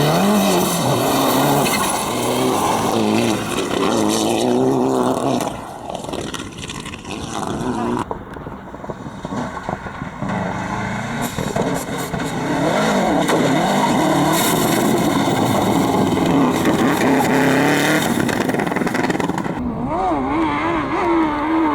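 Competition car engines revving hard and easing off through the turns of a dirt slalom course, the pitch swinging up and down constantly. The sound changes abruptly about eight seconds in and again near the end, as from one car's run to another's.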